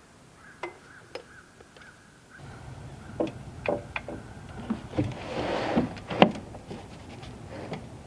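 Irregular sharp knocks and clicks, with a short rush of noise about five and a half seconds in. A low steady hum starts about two seconds in.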